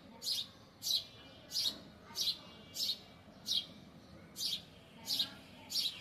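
A bird chirping repeatedly: short, sharp notes, each dropping quickly in pitch, about one every two-thirds of a second, nine in all.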